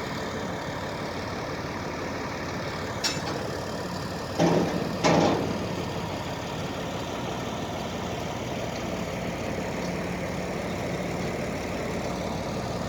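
An engine idling steadily, with a click about three seconds in and two short, louder knocks about a second later.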